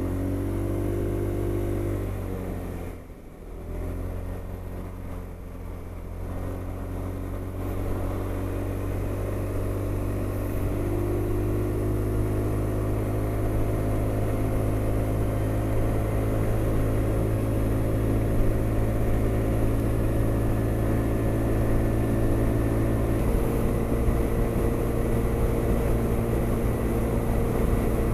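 Honda SH300i scooter's single-cylinder engine pulling away and accelerating, easing off briefly about three seconds in, then rising in pitch again and settling into a steady cruising drone.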